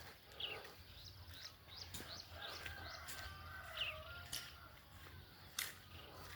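Faint birdsong: many short, quick chirps repeated throughout, over a low steady rumble, with three or four sharp clicks scattered through.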